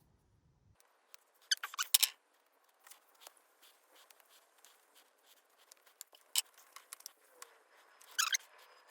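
Hand-work noises from tools and parts: scattered sharp clicks and taps, with two short bursts of rapid rattling scrapes, one about one and a half seconds in and one near the end.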